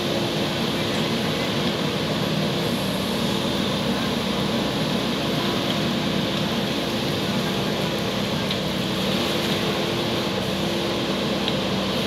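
JCB backhoe loader's diesel engine running steadily, an even drone with a constant hum.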